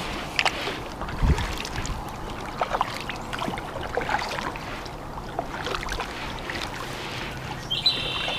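Kayak being paddled: irregular paddle strokes dipping and splashing, with scattered light knocks of the paddle and gear against the hull.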